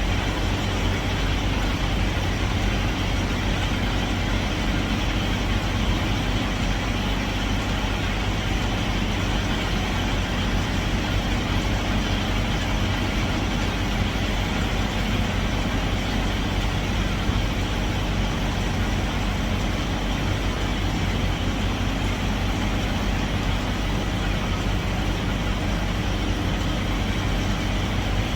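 Semi truck's diesel engine running steadily with a low, even drone.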